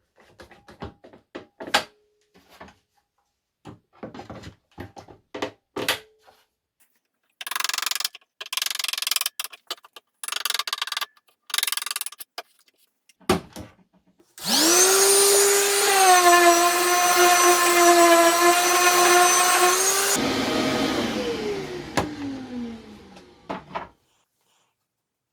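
Workshop handling knocks and a few short scraping spells, then a small electric motor runs at a steady pitch for about six seconds and winds down with a falling whine once switched off.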